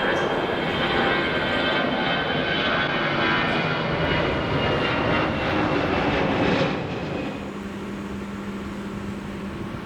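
Airbus A320 jet engines at take-off power, a loud steady noise that drops off suddenly about seven seconds in. A quieter steady rumble with a faint low hum follows.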